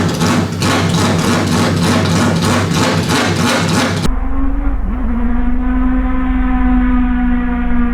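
Four-rotor Mazda RX-7 engine running through an open exhaust, loud. About four seconds in the sound cuts abruptly to a steady, held engine note at constant revs whose pitch sags slightly.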